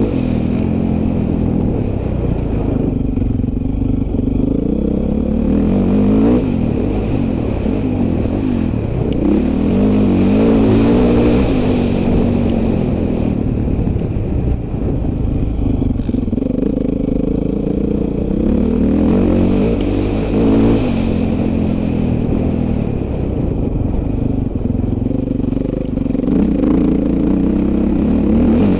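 Dirt bike engine being ridden off-road, revving up and dropping back again and again as the throttle is worked, with a rattle of clatter under it.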